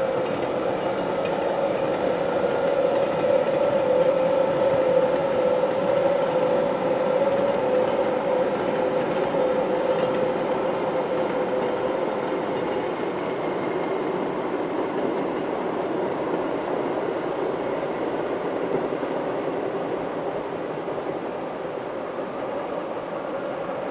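Rhaetian Railway electric passenger train running over a stone viaduct: a steady rolling rumble with a sustained high tone that fades out about halfway through, the whole sound growing slightly louder at first and then slowly receding.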